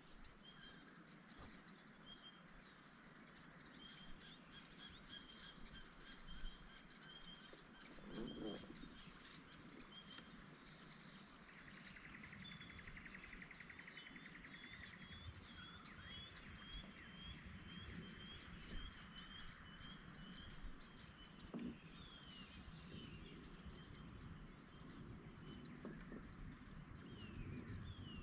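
Faint birdsong: a series of short, evenly repeated high chirps, then a buzzy trill, then more quick, falling chirps. A few soft, low knocks sound now and then.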